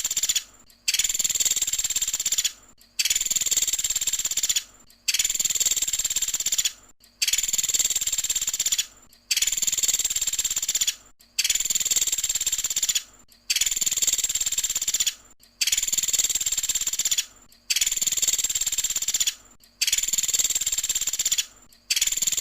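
Pelatuk sampit, a small woodpecker kept as a songbird, calling in fast, high trill phrases. Each phrase lasts under two seconds and they repeat every two seconds or so, about ten times over.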